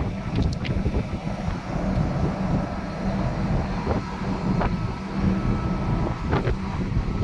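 Strong wind buffeting the microphone in uneven gusts, over a steady low hum and a few faint ticks.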